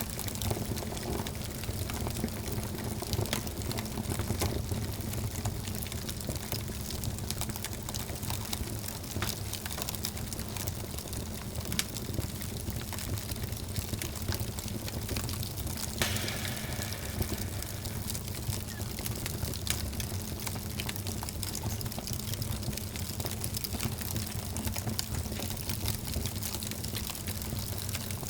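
Wood fire burning in a fireplace: a steady rush of flames with frequent small crackles, and one louder pop about sixteen seconds in.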